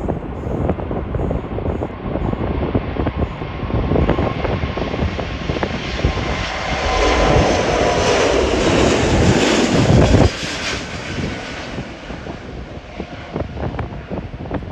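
Jet airliner's engines at takeoff power passing by, the noise building to a peak with a falling sweep in pitch and a high whine on top, then dropping off abruptly about ten seconds in. Gusty wind buffets the microphone throughout.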